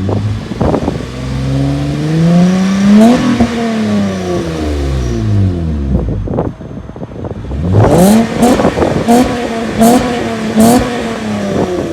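Car engine revved hard, one long rev climbing for about three seconds and then falling. From about eight seconds in come four or five quick revs to the top, each ending in a sharp crack.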